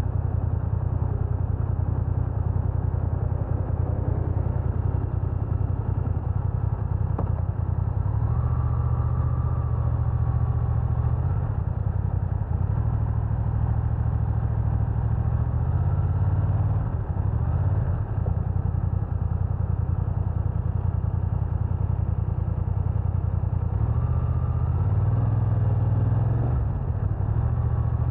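A BMW F900R's parallel-twin engine running as the motorcycle is ridden, with a steady deep rumble throughout and a higher engine note that comes in briefly twice.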